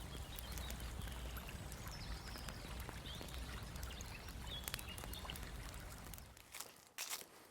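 Woodland ambience: a steady rushing noise with a deep rumble under it and a few faint bird chirps. The rumble stops suddenly near the end, followed by a few sharp crackles.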